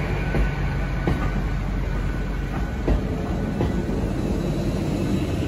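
Great Western Railway Intercity Express Train passing close by: a steady rumble of wheels on rail, broken by several sharp clacks from the wheels.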